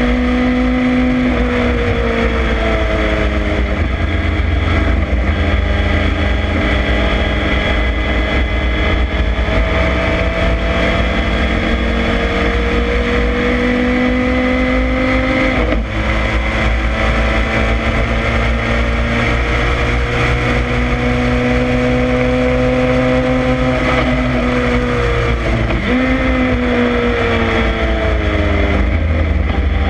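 1965 Ginetta G4 race car's engine pulling hard under racing load, heard from the open cockpit, its pitch climbing slowly over long stretches and easing off between them. There is a gear change about halfway through and a sharp dip and quick jump in pitch near the end.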